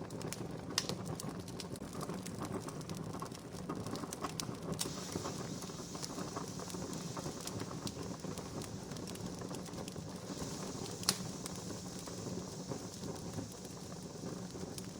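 Wood campfire crackling: a steady hiss and low rumble of burning, dotted with frequent small crackles and two sharper pops, about a second in and about eleven seconds in.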